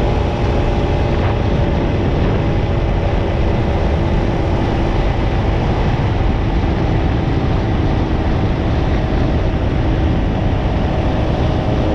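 Yamaha YDS3's two-stroke parallel-twin engine running at a steady cruise while riding, with heavy wind rush on the microphone.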